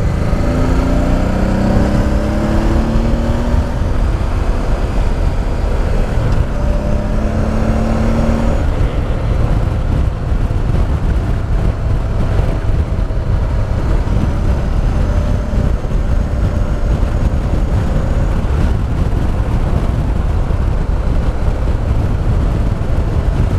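Honda Deauville's V-twin engine pulling hard, its pitch rising over the first few seconds and again briefly about seven seconds in, then running at a steady speed under a heavy rush of wind.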